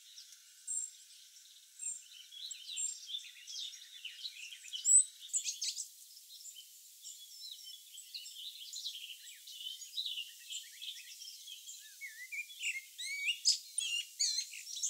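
High, thin chirps and twitters of small songbirds, many short notes one after another, with one sharp loud chirp about five seconds in and busier chirping near the end.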